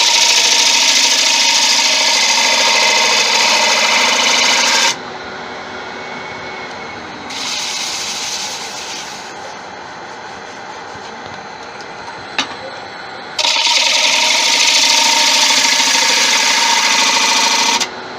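Bowl gouge cutting into the inside of a bowl spinning on a wood lathe, with a loud hiss of shavings and a steady whine. There are two long cuts of about five seconds each, each stopping abruptly, and a shorter, lighter pass between them. In the gaps the quieter lathe keeps turning, and there is a single click.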